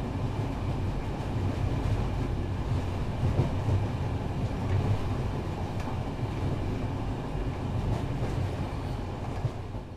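Recorded train running: a steady low rumble that begins to fade out near the end.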